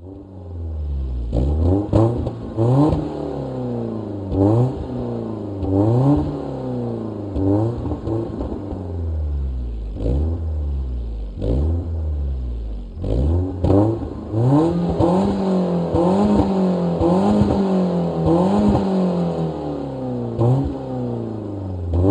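BMW E30 1.8-litre engine through a Fox exhaust with a sport catalytic converter, revved over and over in quick blips, its pitch rising and falling every second or two. About halfway through it is held up for a few seconds at a higher, wavering pitch before the short blips return.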